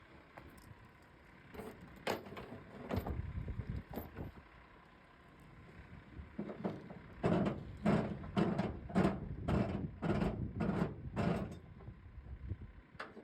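A few scattered sharp knocks, then a steady run of about nine clanks, roughly two a second, that stops near the end.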